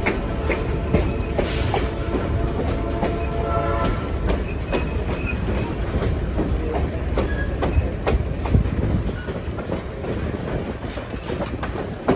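Passenger train in motion: a steady low rumble with repeated clicks of the wheels running over the rails.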